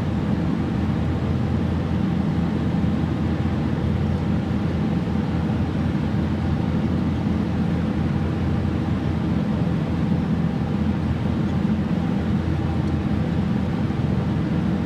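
A boat's engine running steadily, a low, even hum with a wash of noise over it.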